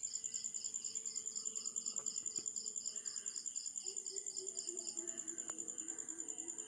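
Steady, very high-pitched pulsing chirp of an insect, about five pulses a second, with faint lower chirps joining about halfway through.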